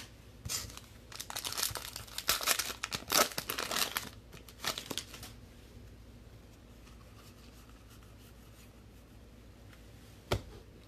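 Wrapper of a football trading card pack being torn open and crinkled for about four seconds, followed by quiet, with one sharp click near the end.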